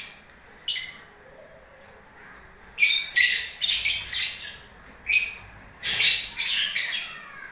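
Lovebirds giving high-pitched squawking calls in short bursts: one about a second in, then a rapid run of calls from about three seconds in to the end.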